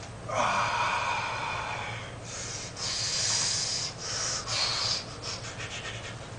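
A man breathing hard from exertion: about four strong, hissing breaths in quick succession, then quicker, fainter ones near the end.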